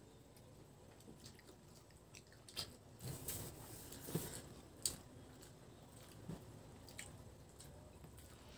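Close-up chewing and wet mouth sounds of someone eating boiled pork trotter with its fatty skin, with a few short sharp smacks and clicks, most of them about three to five seconds in.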